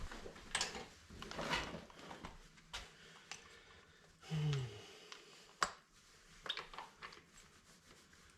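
Scattered light metal clicks, clinks and scrapes of hand tools and parts while the rocker arms are taken off a Ford 460 big-block's cylinder head. A short low sound comes about four and a half seconds in.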